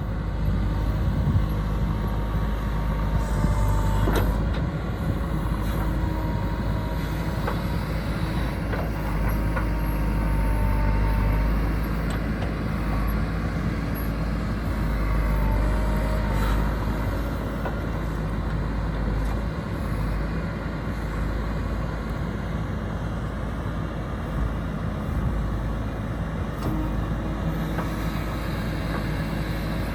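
Diesel engine of heavy road-building machinery running steadily, with a strong low rumble and a faint whine coming and going, over wind on the microphone.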